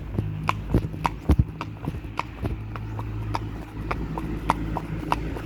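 Horse's hooves clip-clopping at a walk, about three to four strikes a second, over a steady low hum.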